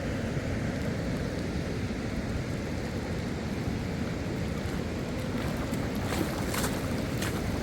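Steady rushing of a fast, turbulent mountain river, heaviest in the low end, with a few sharp clicks or knocks near the end.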